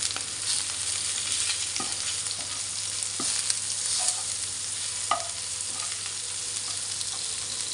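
Chopped chillies, garlic, shallots, bay leaves and galangal sizzling in hot oil in a non-stick wok as they are stirred with metal utensils, with a few sharp taps of the utensil against the pan.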